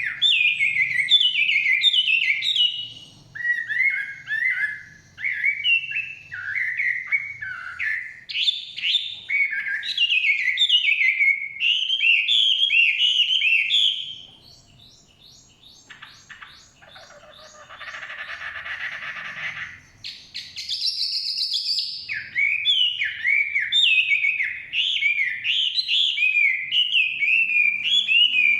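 Chinese hwamei singing: loud, fast runs of repeated whistled phrases that change pattern every few seconds. About halfway through the song stops for several seconds, giving way to soft clicks and a short harsh, raspy stretch, then a high note and the full song again.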